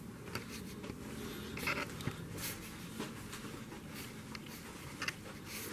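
Quiet room sound with scattered light clicks and rustles.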